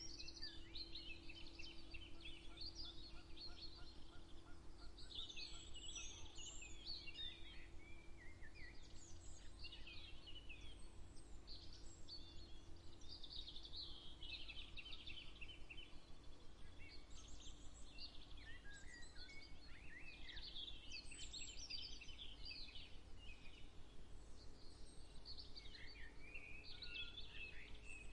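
Several songbirds singing at once, overlapping chirps and trills with short gaps, over a faint steady low rumble and hum.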